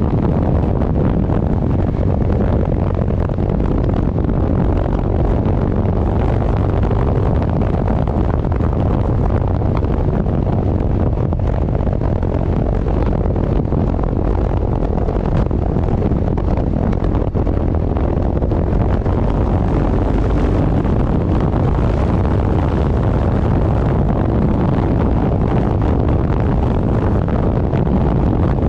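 Heavy wind buffeting the microphone on a moving vehicle, over a low engine and road rumble, steady and unbroken throughout.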